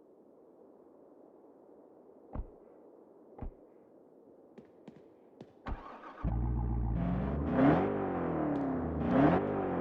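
Two thumps and a few clicks over a low hum, then a car engine starts about six seconds in and revs, its pitch rising and falling several times.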